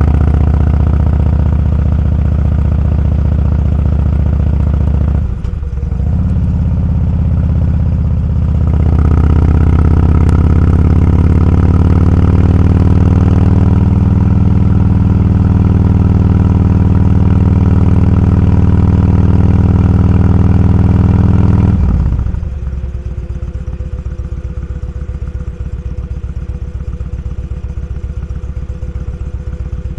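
Motorcycle engine running under way, with a short break in the sound about five seconds in as it shifts and then pulling steadily; about 22 seconds in the throttle closes and the engine drops to a lower, quieter rumble at low revs.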